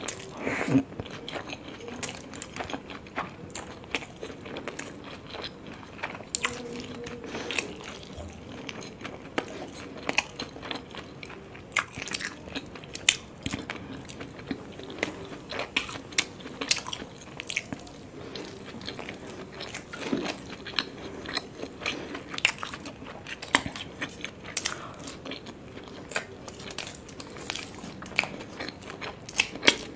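Close-miked eating of steamed momos (dumplings): wet chewing and mouth sounds with many sharp, irregular clicks and smacks, several a second.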